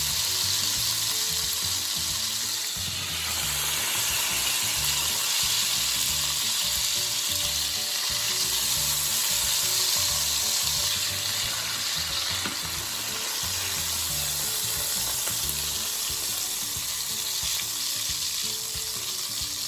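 T-bone steaks sizzling steadily in a hot frying pan as they brown.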